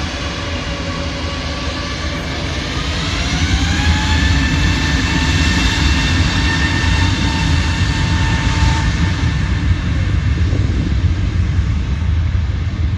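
Jet aircraft engines: a whine rises in pitch over the first few seconds, then holds steady over a deep rumble that grows louder about four seconds in.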